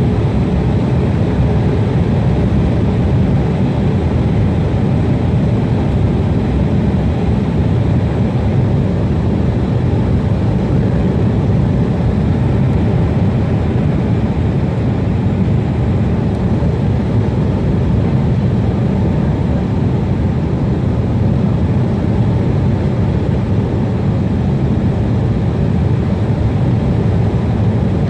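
Steady jet airliner noise heard from inside the cabin: an even, loud, deep rumble of engines and rushing air that neither rises nor falls.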